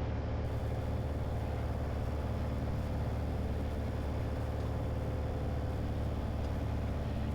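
Piper Arrow's piston engine and propeller droning steadily in the cockpit while the plane lands, with a steady hum and no sudden knocks.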